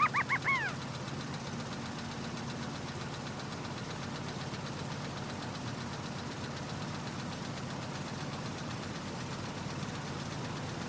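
Excavator motor running steadily with a low hum. A baby monkey's high, wavering cries trail off in the first second.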